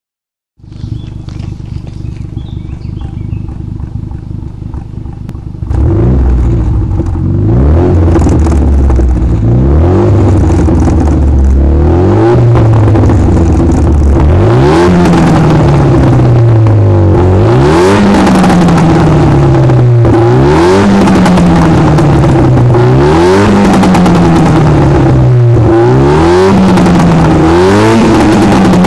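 Renault Mégane RS 225's turbocharged 2.0-litre four-cylinder through a Milltek catback exhaust, idling, then much louder from about six seconds in. From about twelve seconds in it is revved again and again, every two to three seconds: a quick rise in pitch, then the revs slowly falling back.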